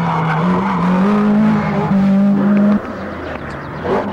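Rally car engine revving hard, its pitch stepping up and down as the driver works the throttle and gears, then cutting off abruptly about three seconds in, leaving a quieter, mixed background.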